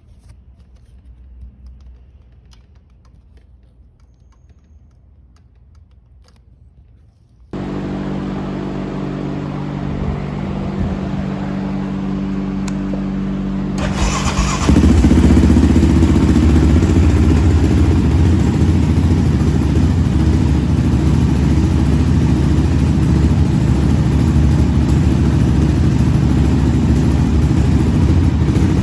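A few quiet seconds with faint clicks, then the 2020 Yamaha Raptor 700's single-cylinder engine running, its valves freshly adjusted. The engine sound cuts in abruptly about seven seconds in, then becomes much louder and rougher about halfway through.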